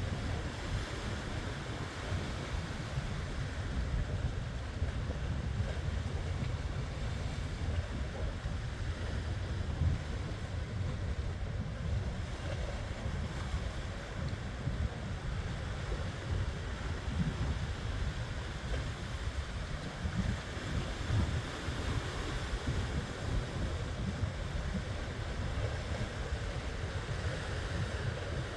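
Ocean surf breaking in a steady wash, with wind buffeting the microphone in a fluttering low rumble that rises and falls with the gusts.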